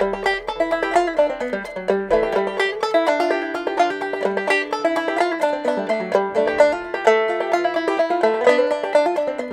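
Five-string banjo played clawhammer style in gEADE tuning, picking a quick, melodic old-time tune in G with a steady run of plucked notes.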